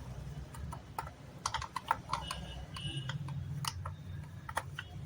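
Scattered light clicks and taps of metal parts being handled as a clutch release bearing is slotted onto its pin and seated on a manual gearbox, over a low steady hum.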